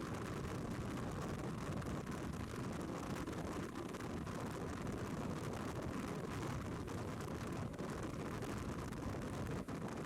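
Steady rush of wind and road noise from a BMW R1200GS motorcycle under way, with no clear engine note.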